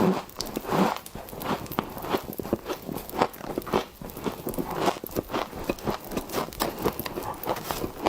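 Soft, powdery freezer frost being bitten and chewed: a steady run of crisp crunches, two or three a second.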